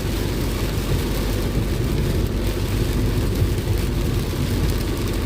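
Steady car engine and road drone heard from inside the moving car, with an even hiss of heavy rain on the body and windscreen.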